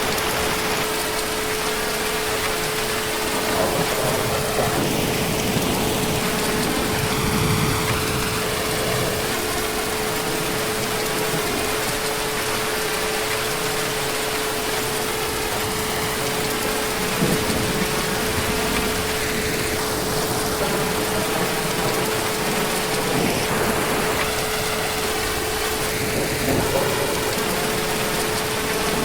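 Heavy rain falling steadily, a dense even hiss, with a steady hum running through it.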